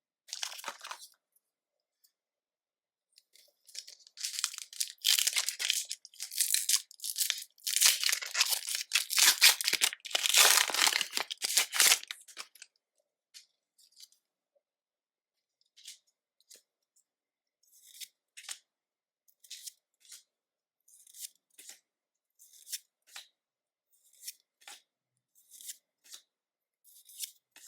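Foil wrapper of a Pokémon card booster pack being torn open and crinkled for several seconds. After that come short soft flicks about once a second as the cards are slid one at a time off the stack.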